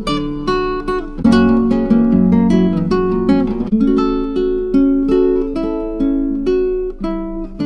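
Acoustic guitar music: plucked notes played at several a second, ending on a chord that rings out and fades near the end.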